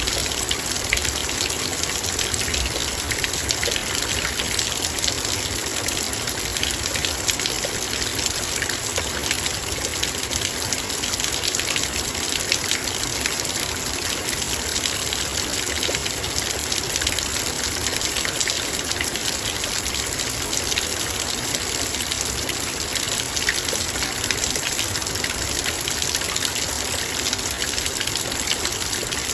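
Heavy rain falling steadily, dense drops pattering on a metal bowl as a constant wash of fine ticks.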